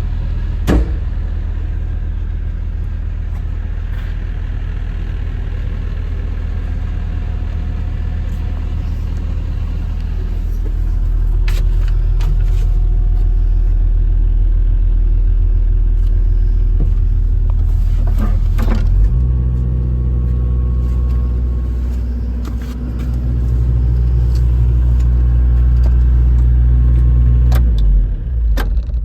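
JCB 65R-1 midi excavator's diesel engine running steadily, with a few sharp knocks or clicks. The engine note gets heavier about two-thirds of the way through, as under load or higher revs, dips briefly, and then dies away right at the end.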